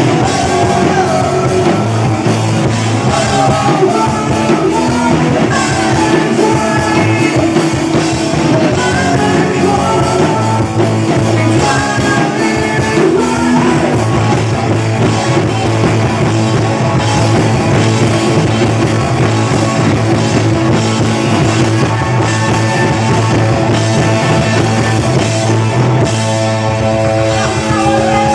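A rock song played by a band, with a voice singing over it.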